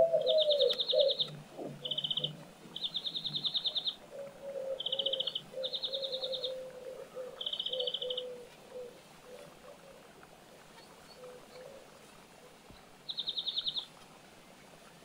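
Birds calling: about seven short, fast-pulsed trills, with a lower cooing call wavering beneath them in the first half, quieter in the second half apart from one last trill near the end.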